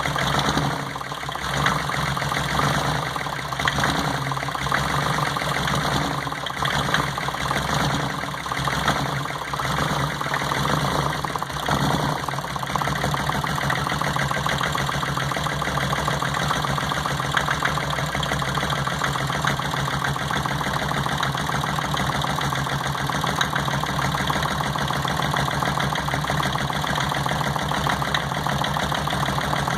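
Engine idling with a misfire on cylinder number 1, running unevenly with irregular stumbles through the first dozen seconds, then steadier.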